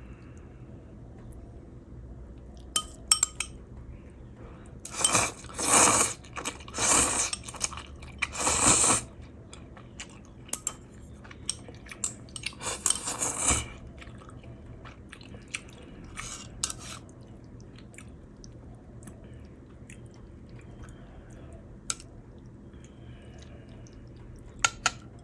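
A person eating, with several loud crunching or chewing bursts in the middle and scattered sharp clicks of utensils against dishes.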